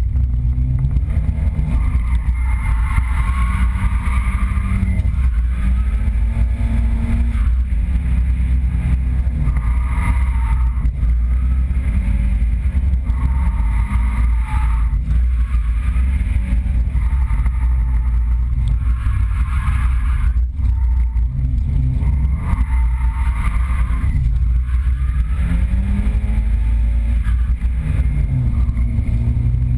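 Nissan 200SX drift car's engine revving up and falling back again and again under hard driving, heard from inside the cabin over a heavy low rumble.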